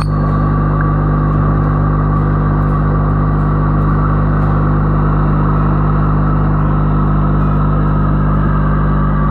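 Loud, steady machine hum with a buzz, unchanging throughout.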